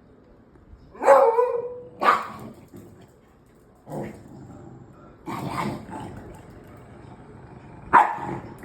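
Dogs barking at each other in a squabble between a beagle and a dachshund. Sharp single barks come about a second in, again at about two seconds and near the end, with quieter barks in between.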